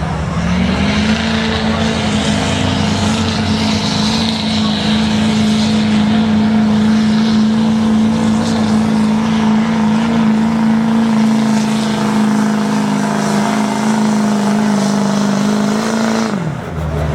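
Duramax V8 turbodiesel of a 2008 GMC 2500 HD pickup under full load pulling a weight sled: it revs up in the first second, holds steady at high revs, then drops off sharply near the end as the driver lets off at the end of the pull.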